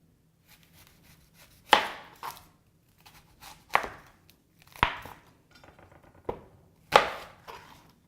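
A knife cutting through a red onion: about five sharp chopping strokes at uneven intervals, with light handling sounds between.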